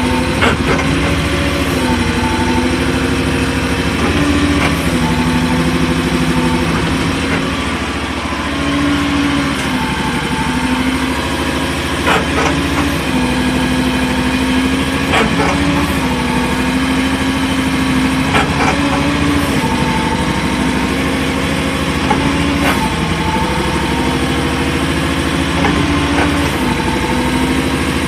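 AGT MY50R mini excavator running while its upper structure swings and stops in either direction, the engine note dipping and rising with each swing. A grinding noise with a sharp knock comes every few seconds as the swing starts or stops, an unexpected fault on a new machine with 11 hours of run time.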